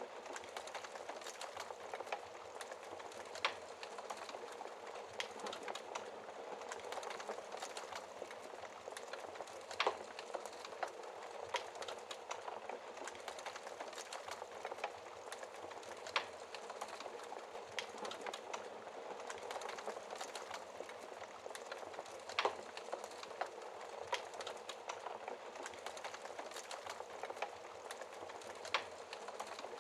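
Wood fire burning in a fireplace: a steady soft hiss of flames with frequent small crackles and occasional louder pops of burning logs.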